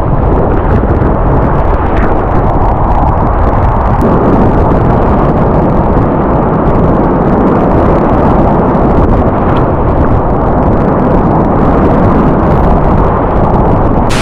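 Loud, steady rush of a whitewater river, deep and dull with little treble.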